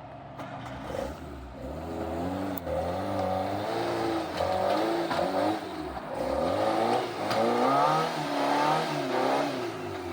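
Off-road vehicle's engine revving up and down in a series of surges, working hard as it climbs over rocks.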